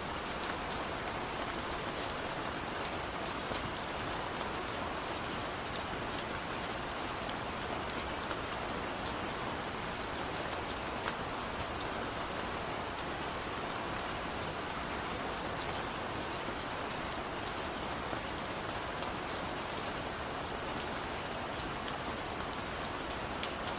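Steady rain falling on a surface, an even hiss sprinkled with small sharp drop ticks, with no thunder.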